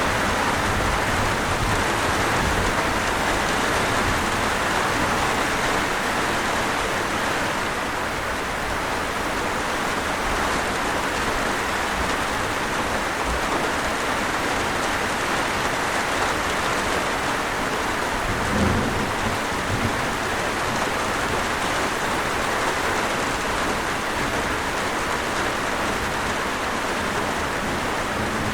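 Steady rain falling in an even hiss. About two-thirds of the way through there is a brief low thump.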